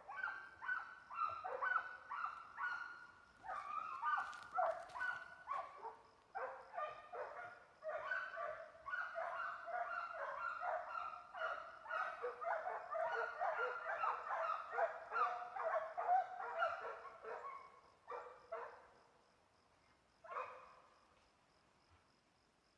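Hunting hounds baying on the trail of a guatusa (agouti), with rapid, overlapping, repeated barks. The baying thins out about eighteen seconds in, to a couple of last barks before it stops.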